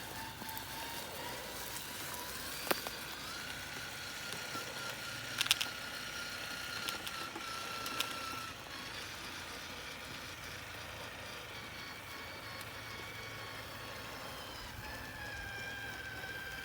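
Traxxas TRX-4 RC crawler's electric motor and geared drivetrain whining steadily, the pitch stepping up and down as the throttle changes. A few sharp knocks come through, the loudest about five seconds in.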